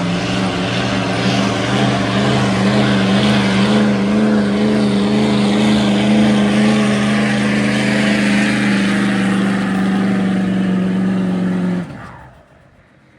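Tuned 2011 Ford F-250's 6.7 L Power Stroke diesel V8, with an aftermarket exhaust, running flat out under heavy load while pulling the sled. The engine note holds nearly steady for about twelve seconds, then drops away suddenly near the end.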